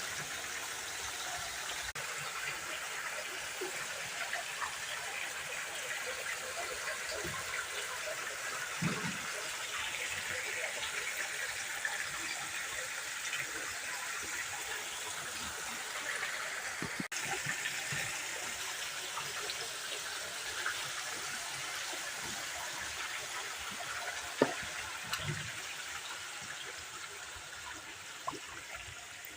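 Water running and trickling steadily, with a few faint knocks now and then.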